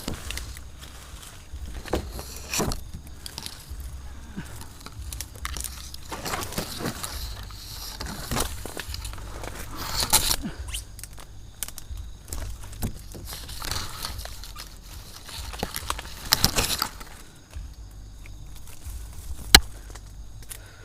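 Irregular rustling, scraping and crackling as a climber works his way down a thorny tree, with scattered sharp knocks, the loudest near the end, over a steady low rumble.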